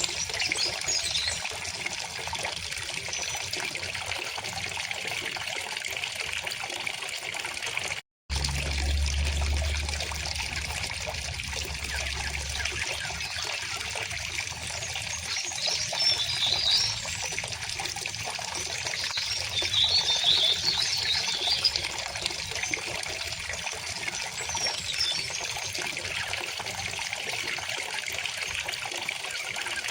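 River water flowing steadily in a continuous trickling rush, with birds singing in short phrases, most clearly around sixteen and twenty seconds in. The sound cuts out for a moment about eight seconds in, followed by a low rumble for a few seconds.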